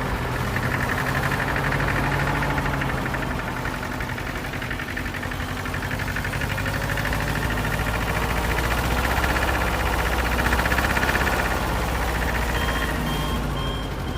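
Small motor and gear drive of a DIY mini tractor plough running steadily with a fast rattling whir that swells and eases with load. Short repeated beeps start near the end.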